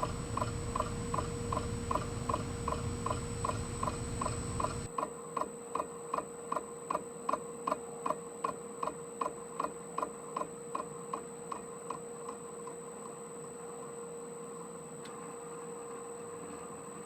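Metal lathe rough-cutting a crank web with a carbide insert tool: a regular tick about twice a second, fading out about twelve seconds in, over the lathe's steady whine.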